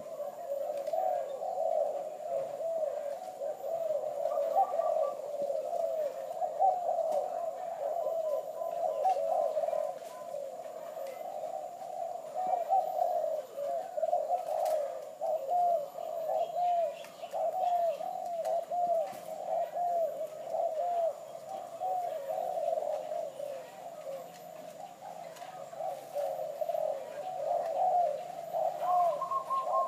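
Crossbred spotted dove (terkukur) cooing in a long run of low, repeated notes without a pause, a clear, strong voice.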